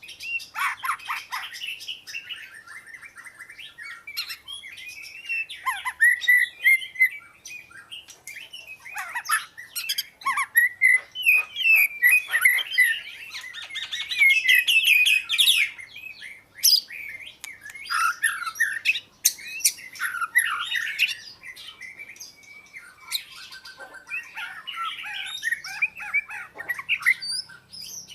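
Oriental magpie-robin singing a varied song of whistled, gliding phrases and fast trills, broken by short pauses.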